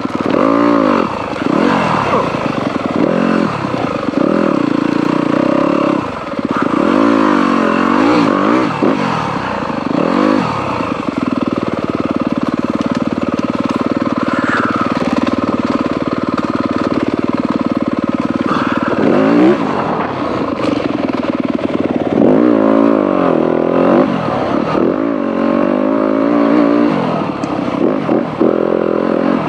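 Dirt bike engine on a trail ride, revs rising and falling over and over as the throttle is worked, held steadier for several seconds midway.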